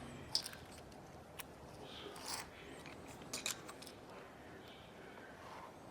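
Faint, scattered small clicks and light scrapes of hand tools and tiny parts being handled, a few at a time with quiet gaps between.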